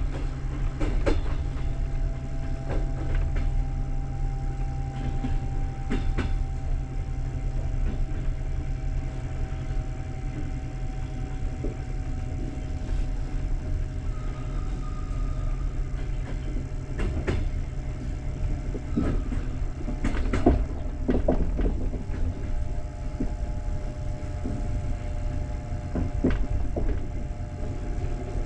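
Passenger train coach rolling along the track, heard from inside the carriage: a steady low rumble with scattered knocks from the wheels and running gear, and faint steady tones.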